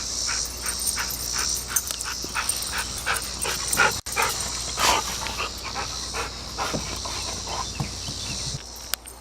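Yellow Labrador retriever panting hard in a quick, even rhythm, with crickets chirping steadily behind.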